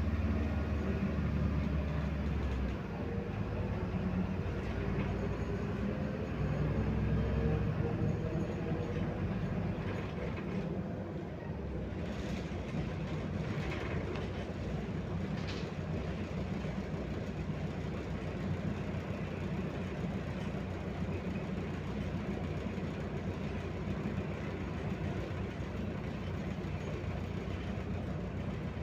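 Inside a MAZ-105 articulated city bus under way: diesel engine and road rumble, with a faint rising whine through the first ten seconds as it gathers speed, then a steady run.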